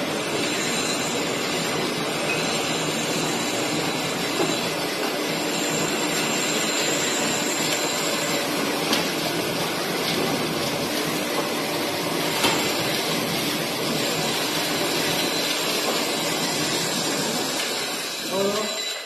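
Plate rolling machine running, its rolls and drive giving a steady mechanical drone with a few faint ticks. The drone fades out just before the end.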